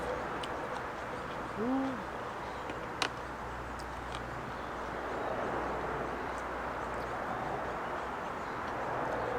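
A bird gives one short, low hooting call about two seconds in, over a steady outdoor background hiss. A single sharp click follows about a second later.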